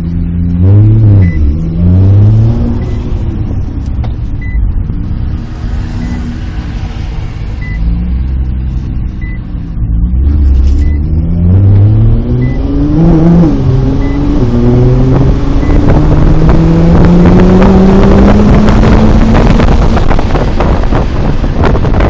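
Nissan GT-R R35's twin-turbo V6 being revved and driven hard. There are a few quick rises and drops in pitch in the first seconds. From about halfway the engine pitch climbs in steps through the gears into one long rising pull. A faint short beep repeats about every second and a half.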